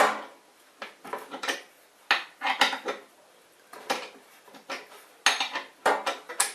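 Irregular light metallic clinks and scrapes, about a dozen of them, each ringing briefly, from adjusting a threaded levelling foot on a CNC machine table.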